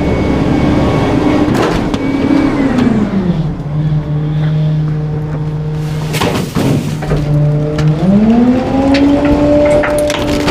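Garbage truck's engine running at raised revs, dropping to idle about three seconds in, then revving back up near the end as the packer is worked again. A single sharp knock comes just past the middle, with scattered metal clanks throughout.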